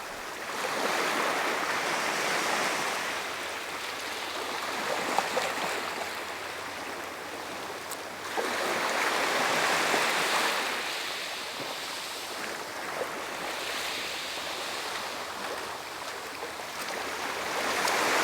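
Outdoor rushing noise that swells and fades in slow waves, three rises in all, with a few faint clicks.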